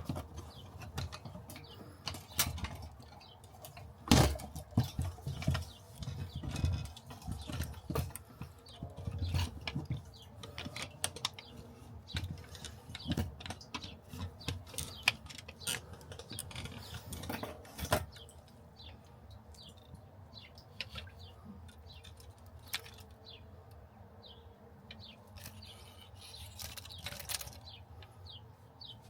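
Irregular clicks, taps and knocks of hand tools and parts being handled during fuel pump work, busy and louder for the first half, then lighter scattered ticks.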